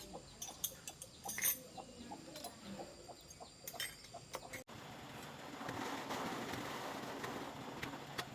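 Faint bird calls and scattered small clicks, then after a sudden cut a little past halfway, a steady rushing noise.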